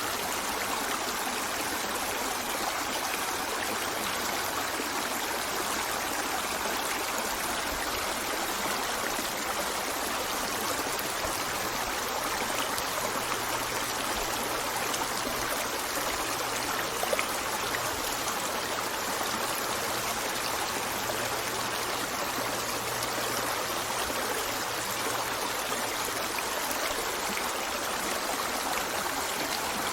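River water flowing, a steady, even rush and babble of a stream.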